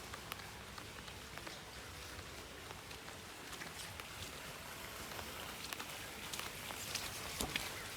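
Rain falling steadily, with scattered sharp drops and drips tapping on surfaces, more of them near the end.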